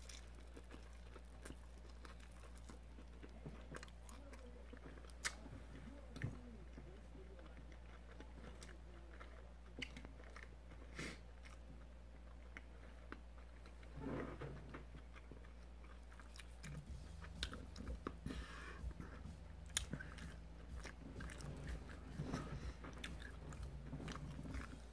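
A person chewing and biting into chicken wings up close: soft, wet chewing with scattered sharp clicks and crunches, getting busier in the last several seconds.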